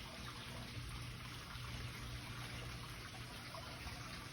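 Steady trickle of running water over a low, steady hum.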